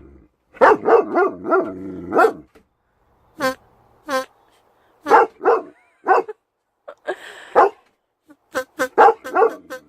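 German Shepherd barking in short, separate bursts, with a quicker run of barks near the end.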